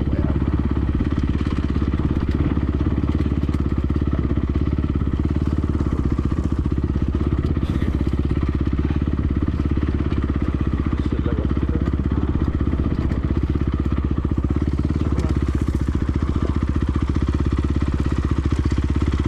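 Honda CRF250R's single-cylinder four-stroke engine running steadily at an even speed, with no revving.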